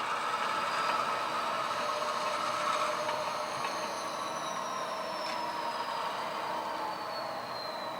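HO scale model diesel locomotive pulling a string of cars along the track, running steadily with a faint high whine that slowly falls in pitch.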